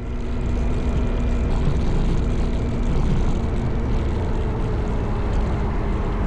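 Motorcycle running at a steady speed on the road, a steady engine drone under a rush of wind and road noise that fades up in the first half second.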